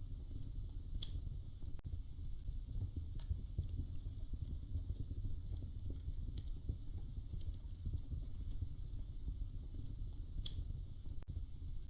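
Wood fire crackling in a fireplace: a steady low rumble with sharp pops and snaps scattered every second or two.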